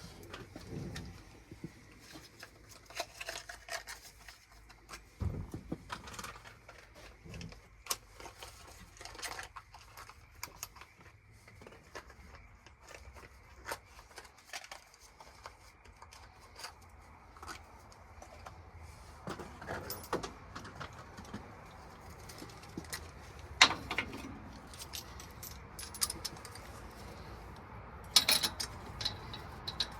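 Hand tools and spark plugs clinking and clicking as they are handled, with a few sharper metal knocks scattered through.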